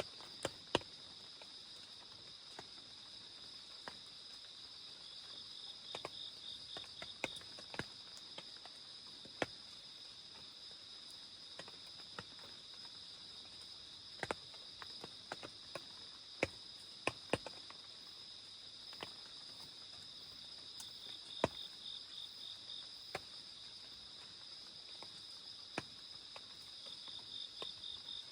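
Crickets and other night insects calling in a steady high chirring, with a second insect's pulsed trill joining a few times. Scattered single drops of rain tap at irregular intervals.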